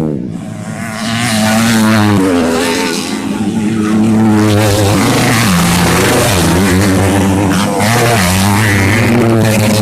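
Racing motorcycle engines running hard, the pitch repeatedly dropping as the throttle is shut and climbing again as the bikes accelerate.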